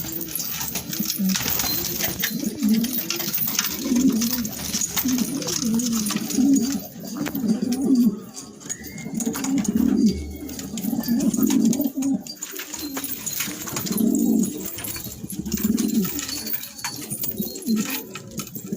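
Domestic pigeons cooing over and over, several birds overlapping, with scattered light clicks.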